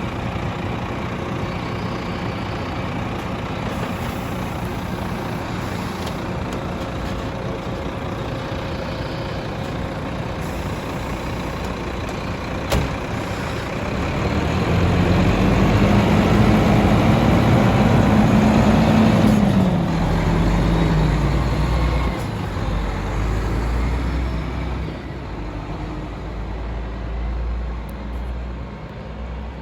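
Garbage truck engine running steadily, then revving up about halfway through for several seconds and dropping back down. A single sharp click comes just before the rev.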